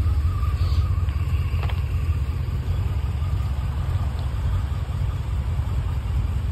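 BMW E38 740i's 4.4-litre V8 idling steadily, its sound sitting low and even.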